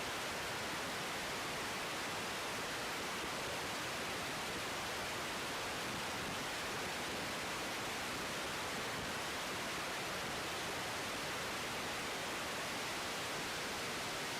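Steady, even static hiss of an air traffic control radio feed between transmissions.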